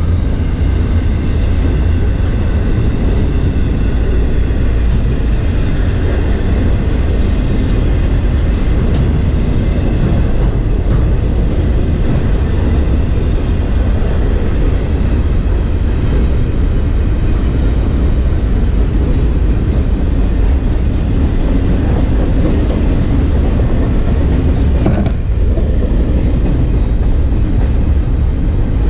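Double-stack intermodal container well cars rolling past: a steady, loud rumble of steel wheels on rail, with a brief clank about 25 seconds in.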